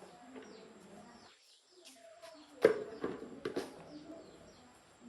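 Birds chirping in short falling notes, with one sharp knock a little past halfway and a few lighter knocks just after it.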